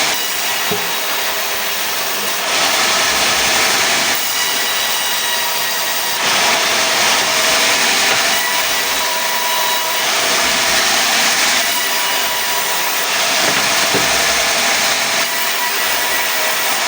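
Sawmill saw running and cutting pine into boards: a steady machine hum, with the cutting noise swelling and easing every couple of seconds.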